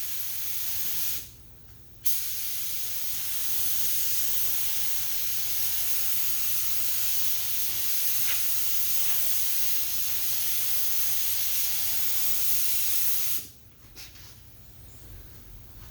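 Air spray gun spraying lacquer primer: a short trigger pull that stops about a second in, then after a brief pause one long steady hiss that cuts off sharply near the end.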